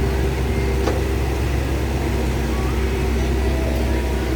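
Excavator's diesel engine running steadily, with a single knock about a second in.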